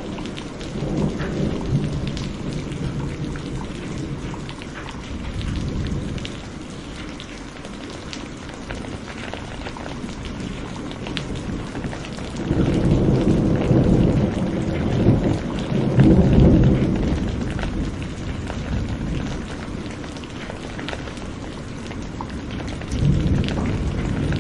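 Steady rain falling, with rolling thunder that swells in low rumbles several times, loudest in a long rumble around the middle.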